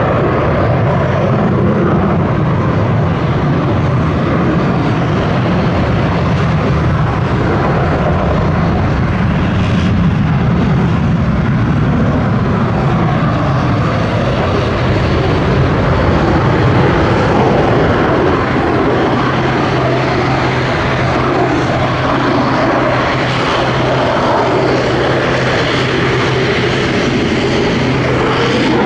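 An F-16 fighter's single jet engine running loud and steady, a dense rushing roar with no breaks; a steady low hum joins in about two-thirds of the way through.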